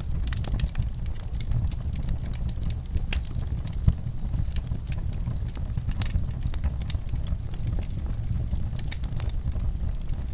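Fire crackling: frequent sharp snaps and pops over a steady low rumble, with one louder pop about four seconds in.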